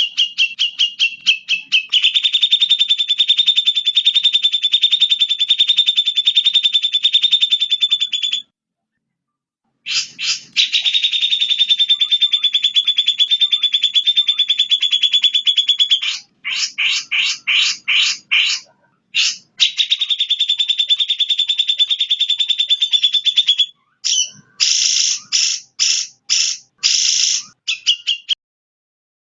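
Recorded bird calls played as tutoring material for a songbird: long, fast, evenly pulsed trills lasting several seconds each, cut by abrupt silent gaps, with bursts of short separate notes about halfway through and again near the end.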